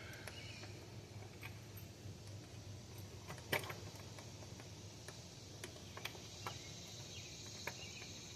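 Scattered light clicks and taps of engine parts being handled and seated while the intake manifold is fitted, with one sharper click about three and a half seconds in. A steady low hum and a high hiss run underneath.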